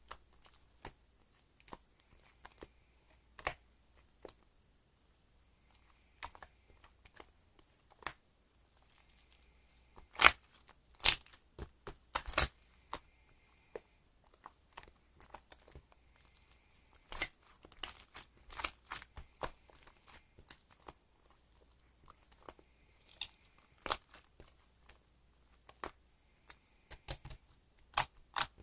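Handling noise while preparing a drink: irregular sharp clicks and crinkling, the loudest few about ten to twelve seconds in.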